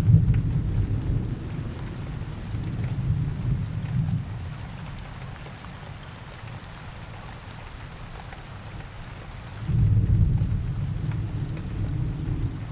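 Steady rain with two low rolls of thunder. The first breaks in suddenly at the start and rumbles for about four seconds; the second swells up about ten seconds in.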